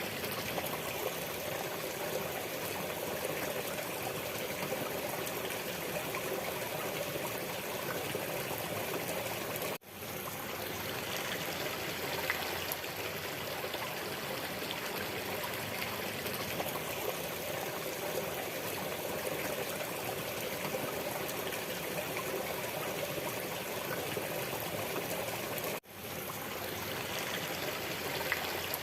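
Waterfall water rushing and splashing steadily, an even wash of noise; it drops out for an instant twice, about ten seconds in and near the end, and fades straight back.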